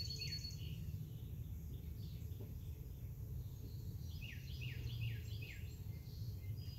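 A songbird singing phrases of quick downslurred whistled notes, about five to a phrase: one phrase at the very start and another around four seconds in, over a steady low outdoor rumble.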